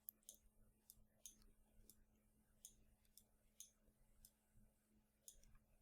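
Faint, irregular computer mouse and keyboard clicks, about a dozen scattered through, over a faint steady electrical hum.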